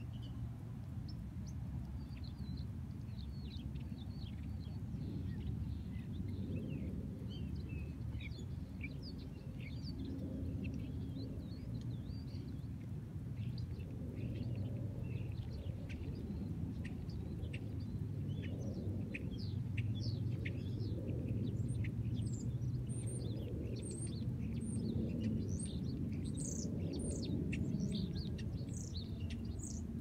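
Birds chirping in a tree, a quick overlapping run of short high chirps that grows busier and higher-pitched in the last third. A steady low background rumble runs beneath.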